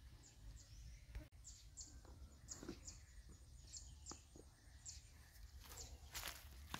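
Faint small-bird chirps: short, high notes that slide downward, repeated about every half second, with a few soft clicks in between.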